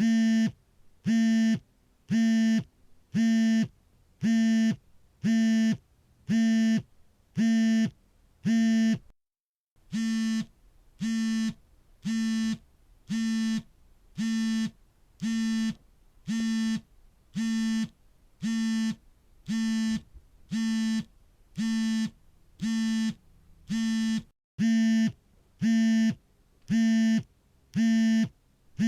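Smartphone vibrating in a steady rhythm of short buzzes, each about half a second long, about three every two seconds. The pattern stops briefly about nine seconds in and again near the end.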